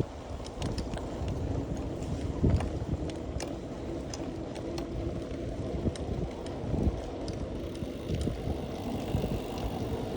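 Wind buffeting the microphone over the rumble of a bicycle rolling along, with scattered light clicks and knocks from the ride.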